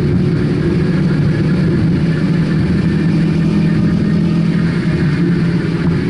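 Car engine running hard at a steady pitch as the car drives at speed, heard from inside the cabin with road noise.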